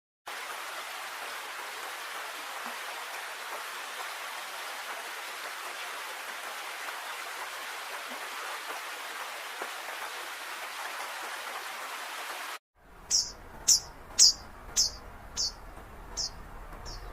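A steady, even hiss, like rain, for about twelve seconds, then it cuts off abruptly. After the cut a bird gives about seven short, high, downward-sliding chirps, roughly two a second, over a faint low rumble.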